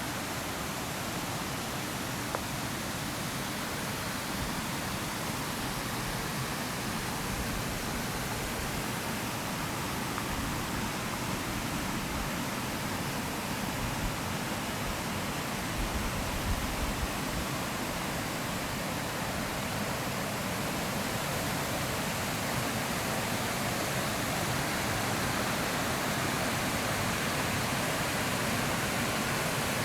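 Running water of a forest stream: a steady, even rush that grows slightly louder near the end.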